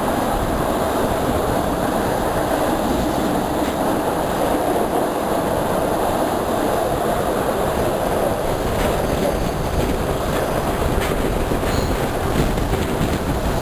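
Vitória-Minas (EFVM) passenger train running along the line, heard from a coach window: a steady rolling rumble of wheels on rail. A few sharp clicks come through from about nine seconds in.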